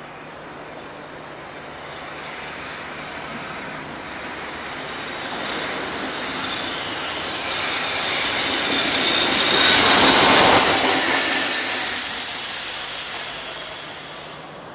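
An EF65 electric locomotive approaching on a curve and passing, its wheels running on the rails. The sound builds steadily, is loudest about ten seconds in with a high wheel squeal, then fades away.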